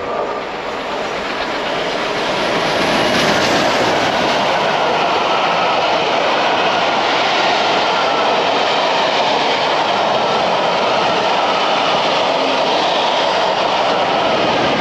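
A train passing close by on the main line, a loud steady rush of wheels on rail that builds over the first two or three seconds and then holds.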